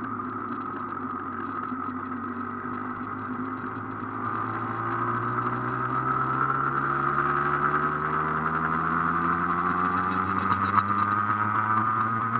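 Aprilia AF1's two-stroke engine running under way as the bike rides. It holds a steady pitch at first, then from about four seconds in grows louder and rises slowly in pitch as the bike accelerates in one gear.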